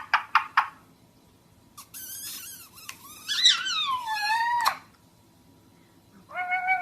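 An animal calling: a quick run of short chirps at the start, then a longer wavering, squawking call that rises and falls, and a short call near the end.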